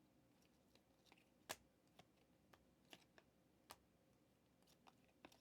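Near silence broken by about ten faint, irregular clicks and taps, the sharpest about one and a half seconds in.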